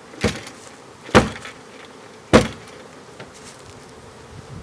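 Three hard knocks of a wooden box being banged to shake honeybees off, about a second apart, the last two the loudest, over the steady buzzing of the bees.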